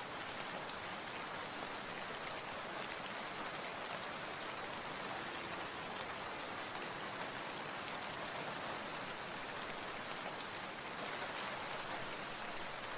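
Steady rain falling: a continuous even hiss with faint scattered drop ticks.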